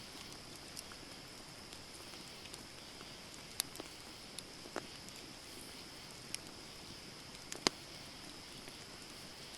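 Wood campfire burning, with scattered sharp crackles and pops over a steady high hiss; the loudest pop comes about three-quarters of the way through.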